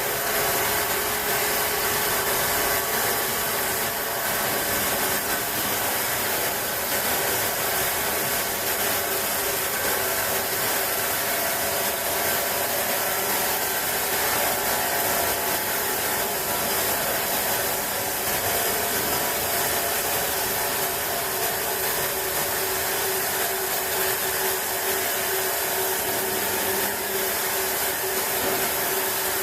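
Large sawmill sawing machine running and cutting wood: a steady whine of several constant tones over an even hiss, without pause.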